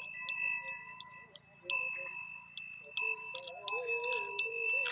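Small metal bells struck again and again at an uneven pace, about every half second, each strike ringing on with bright high tones, over a faint wavering melody.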